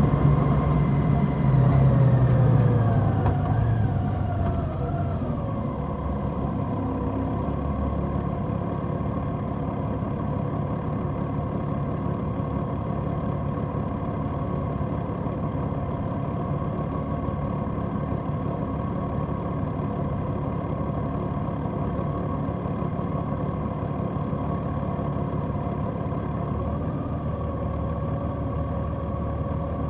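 Large motorcycle's engine, heard from the bike, with its revs falling over the first few seconds as it slows. It then runs at a steady, even note for the rest of the time.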